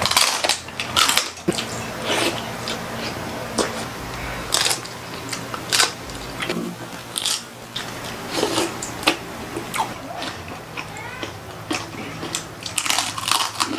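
Close-miked crunching bites and chewing of crispy roast and fried pork, with irregular crackles throughout.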